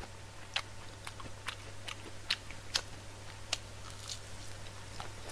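A person chewing and biting fried onion chicken close to the microphone: soft, irregular crunches and mouth clicks, about two a second, over a faint low hum.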